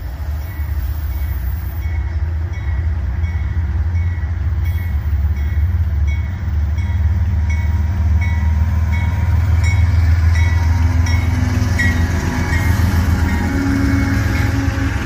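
Diesel locomotives of a freight train passing close with a heavy, steady engine rumble that swells to its loudest about two-thirds of the way in, followed by refrigerated boxcars rolling by with wheel and rail noise. A high ding repeats evenly about twice a second throughout, as the locomotive's bell rings.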